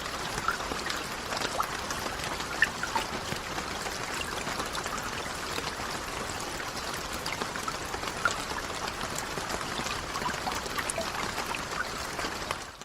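Steady rain falling, an even hiss with many separate drops ticking and splashing close by. It cuts off right at the end.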